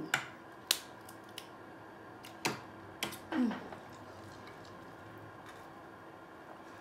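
Close-miked mouth sounds of eating: a few sharp clicks and smacks of chewing in the first three seconds, and a short falling hum from the voice about three and a half seconds in, then only quiet chewing and room tone.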